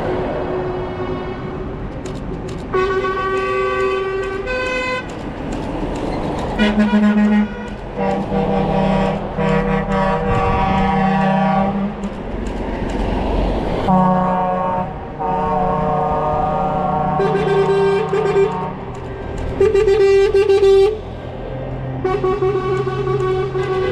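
Several truck air horns sounding long blasts at different pitches, one after another and overlapping, over the low rumble of truck engines.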